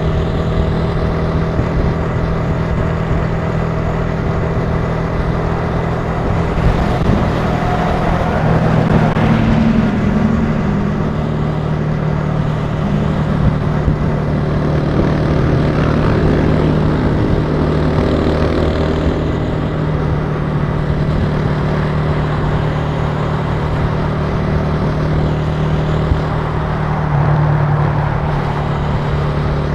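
Italika TC300 motorcycle engine running steadily under way, with road and wind noise; the engine note rises a little about a third of the way in and again briefly near the end.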